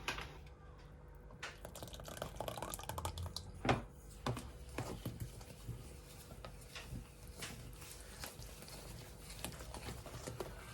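Kitchen utensils and bowls handled while mixing cupcake batter: scattered light clicks and taps, with one louder knock about three and a half seconds in.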